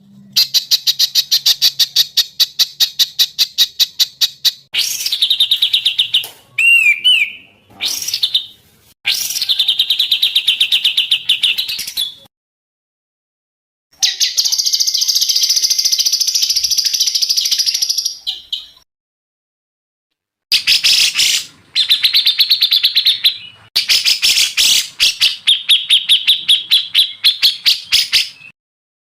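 Songbirds singing in loud, high-pitched trills of rapidly repeated notes, with a short looping whistle about seven seconds in. The song is a spliced recording: it cuts off abruptly into silence twice and resumes.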